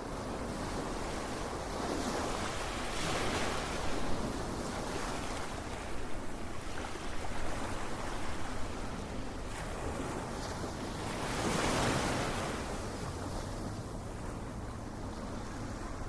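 Ocean surf: a steady wash of breaking waves, swelling louder about three seconds in and again around twelve seconds.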